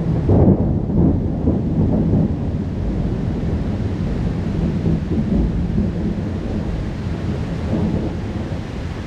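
Thunder rumbling low over a heavy rain shower. It is loudest about half a second in, then slowly dies away while the rain hiss goes on.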